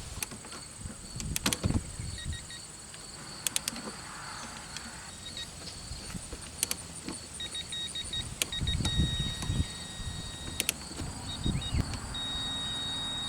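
Electronic torque wrench tightening the throttle body bolts: groups of short high beeps that twice run into a long steady tone as the set torque is reached, with several sharp clicks between.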